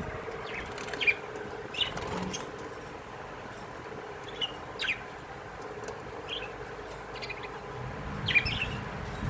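Budgerigars chirping in a breeding colony: about eight short, scattered chirps over a faint steady hum.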